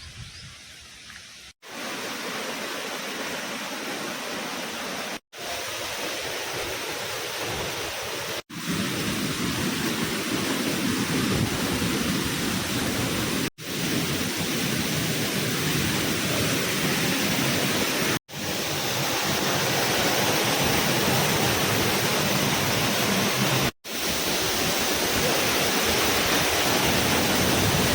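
Steady rushing roar of a monsoon-swollen waterfall. It grows louder in steps and breaks off for an instant every few seconds.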